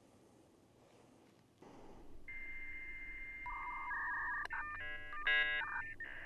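Dial-up modem handshake: a steady high answer tone from about two seconds in, then lower steady tones, a burst of stacked warbling tones, and a rushing hiss of data tones near the end.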